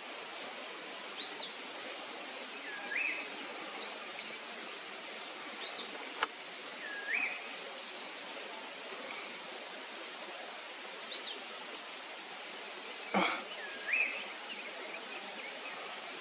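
Steady hiss of outdoor ambience with a bird calling repeatedly: a short upward-sweeping note three times, each about four to five seconds apart, alternating with higher short arched notes. Two faint clicks a few seconds apart.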